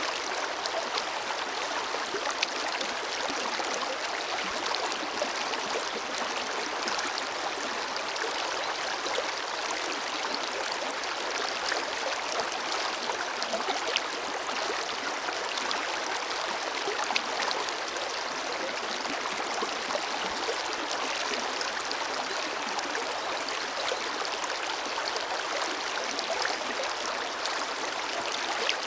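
Forest river flowing steadily over stones, a constant rushing with small splashes and gurgles throughout.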